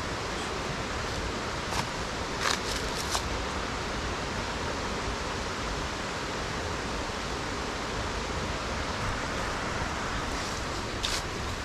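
Running water rushing steadily in a mountain stream, with a few short clicks about two to three seconds in and again near the end.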